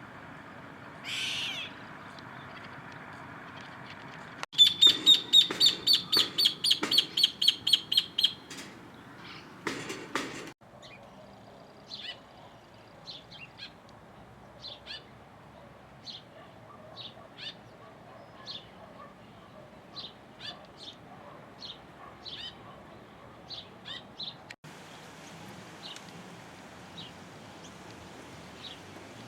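Bird calls in several short edited clips: a loud run of rapid, repeated high calls, about four a second for some four seconds, then scattered short high chirps every second or so.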